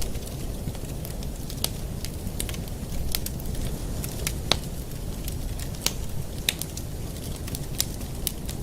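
Fireplace fire crackling, with irregular sharp pops over a low steady rumble.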